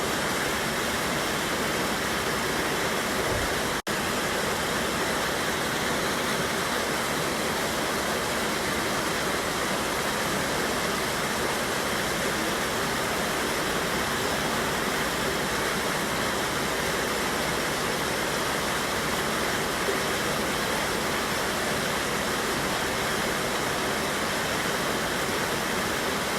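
Waterfall on a mountain river: a steady, even rush of falling and tumbling water, cut by a split-second dropout about four seconds in.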